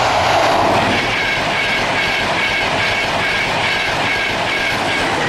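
Class 91 electric locomotive and its Mark 4 coaches passing close at speed, a loud rush of wheel and air noise, while a level crossing warning alarm beeps about twice a second.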